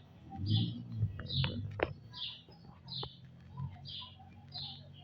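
A small bird chirping repeatedly, about once a second, over a steady low hum, with a few faint clicks in the first half.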